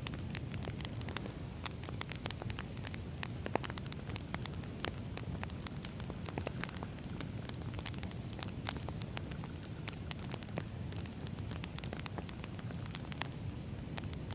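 Firewood burning in a fire, with a steady low rumble of flame and many small, irregular crackles and pops.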